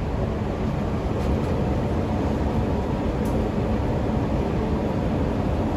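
Steady low rumble inside an MTR Kwun Tong Line C-train car.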